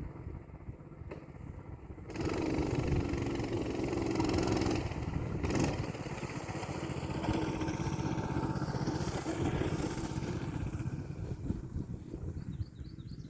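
Coleman BT200X mini bike's small single-cylinder four-stroke engine running at low throttle, then opened up about two seconds in and held under throttle with its pitch shifting as the bike is ridden, easing off near the end.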